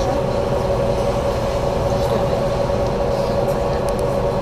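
BKM 43300D trolleybus under way, heard from inside the passenger cabin: a steady electric whine from its traction drive over road rumble.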